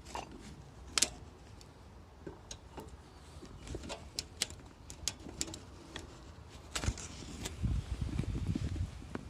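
Wood-pellet fire in a Solo Stove fire pit crackling, with irregular sharp pops. A low, fluttering rumble comes in near the end.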